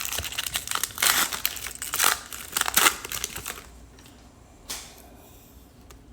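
Trading card pack wrapper crinkling as it is torn open and handled, for about three and a half seconds, then only faint handling with a single short click.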